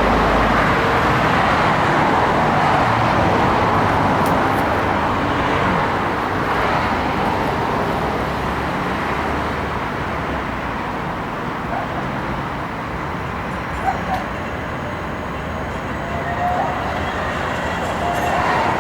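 Street traffic noise that fades through the middle, with two sharp clicks about fourteen seconds in. Near the end the noise builds again and a whining tone comes in as an AnsaldoBreda Sirio tram approaches.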